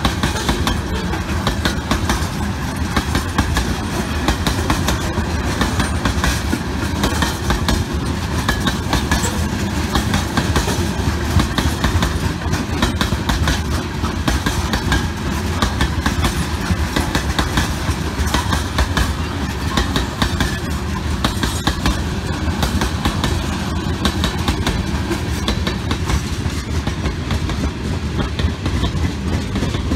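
Freight train of tank cars rolling past, steel wheels clattering rapidly over the rail joints over a steady rumble.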